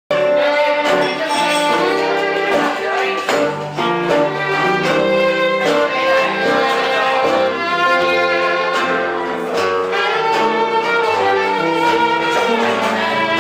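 Live gypsy-style band music, a fiddle melody over guitar, starting abruptly.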